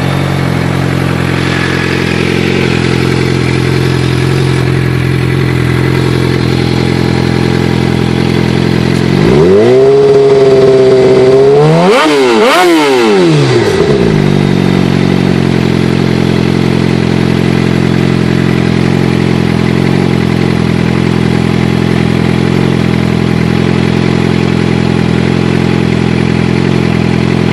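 Suzuki GSX-R 600 inline-four idling through an M4 slip-on exhaust. About a third of the way in it is revved up and held briefly, blipped once more, then drops back to a steady idle.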